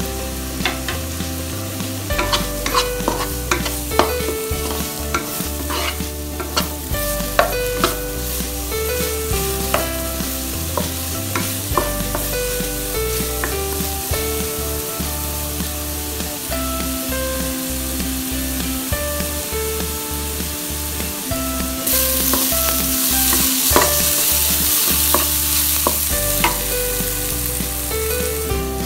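Minced garlic and chopped onion frying in oil in a wok: a steady sizzle with the clicks and scrapes of a wooden spatula stirring them. The sizzle grows louder about three quarters of the way through.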